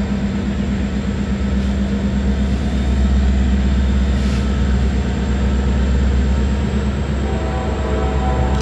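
Diesel locomotive engines running with a steady low rumble, from a Canadian National ore train.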